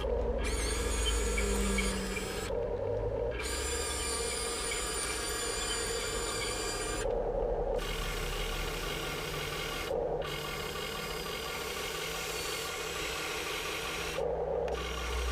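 Huina 1580 all-metal RC excavator working, its electric servos and metal gears whining in stretches with four short breaks, over a scraping rasp as it digs.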